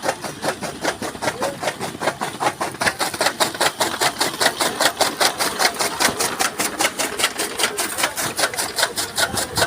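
Fodder chaff cutter (toka machine) chopping maize stalks, a fast, even clatter of about six chops a second.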